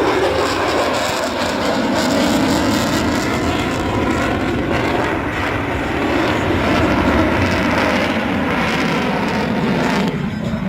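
F-22 Raptor fighter jet's afterburning turbofan engines, a loud, steady roar as the jet flies its display, easing slightly near the end.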